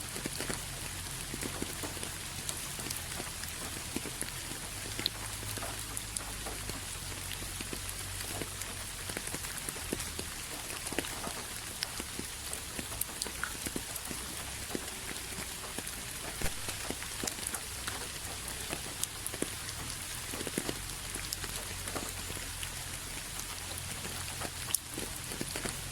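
Steady rain falling, a constant hiss with many separate drops ticking on a surface and a low rumble underneath.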